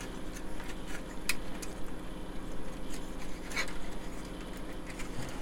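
Plastic model-kit parts being pried apart by hand, with a few small sharp clicks and cracks as old glue joints give, two clearer ones about a second and three and a half seconds in, over a steady low hum.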